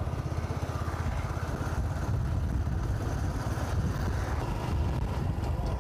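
Motorcycle engine running steadily while riding, a low, rapidly pulsing rumble with road noise.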